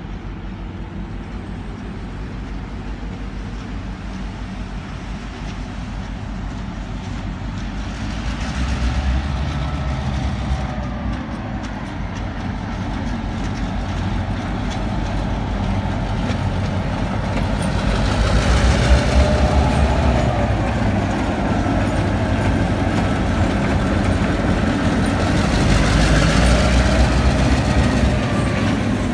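Diesel-hauled local freight train rumbling past, its heavy low engine and wheel rumble swelling and easing a few times, with faint gliding tones over it.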